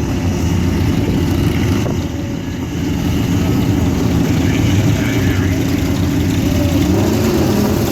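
A car engine running at a steady idle, loud and low, with a slight rise in pitch near the end.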